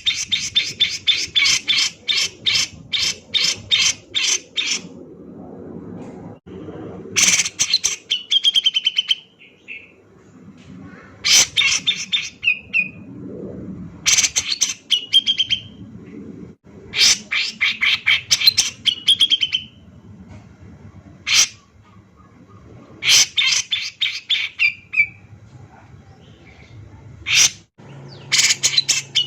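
Cucak jenggot (grey-cheeked bulbul) male singing hard in repeated bursts of rapid, sharp chattering notes, several ending in a short ringing note, with single sharp calls between the bursts. A faint low background hum runs underneath.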